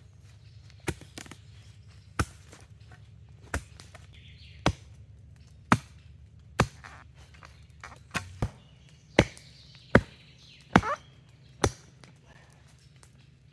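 Wood being chopped with an axe: about a dozen sharp strikes, roughly one a second.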